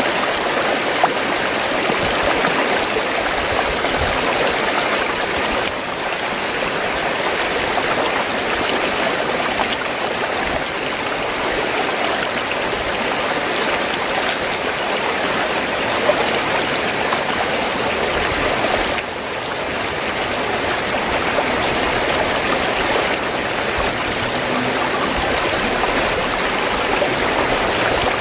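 Fast-flowing stream water, gurgling and rushing steadily, with brief dips in level at a couple of points.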